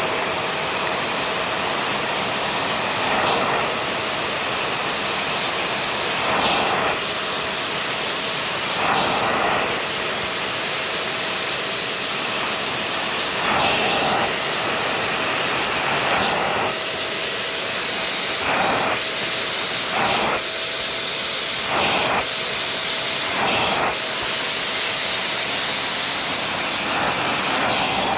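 Vacuum cleaner running steadily over a shaggy rug, its motor whine under a loud airflow hiss. The sound surges briefly every two to three seconds as the head moves back and forth over the pile.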